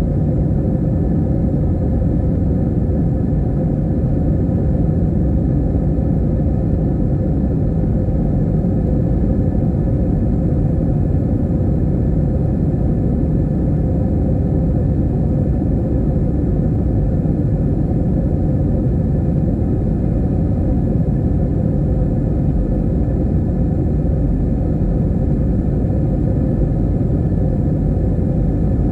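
Airliner cabin noise in flight: the steady low rumble of the engines and airflow, unchanging, with a faint steady hum.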